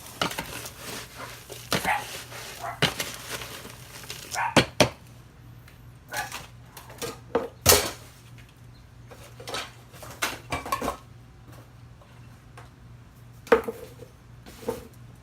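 Irregular clicks, knocks and short scrapes of hard objects being handled, over a low steady hum.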